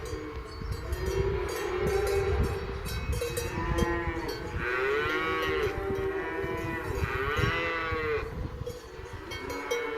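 Calves mooing, several overlapping calls that rise and fall in pitch, the loudest two about halfway through and near three-quarters of the way, with bells clanking steadily underneath.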